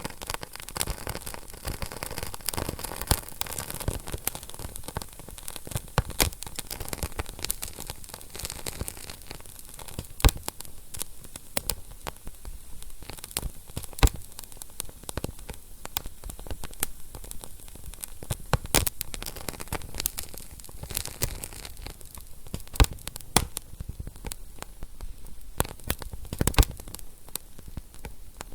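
Wood fire in a fireplace crackling, dense irregular snaps and pops over a soft steady hiss, with a few sharper, louder pops now and then.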